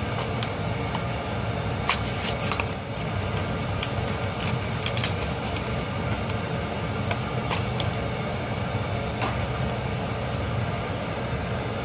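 Steady hum of an air conditioner or fan, with a scatter of light clicks.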